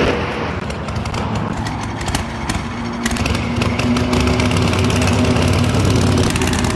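Harley-Davidson Panhead V-twin chopper engine running as the bike pulls away and rides close past, growing louder about halfway through.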